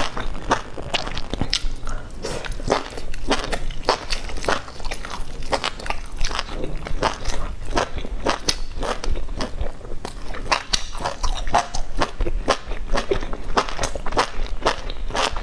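Close-miked chewing and biting of meat-wrapped enoki mushroom rolls: a steady run of crunchy clicks and mouth noises, several a second.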